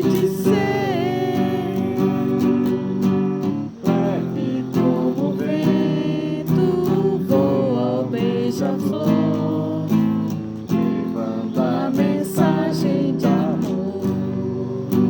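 Acoustic guitar strummed in chords, with a voice singing the melody over it.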